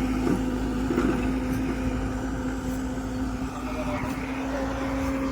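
Heavy diesel engine running steadily with an even, unchanging hum.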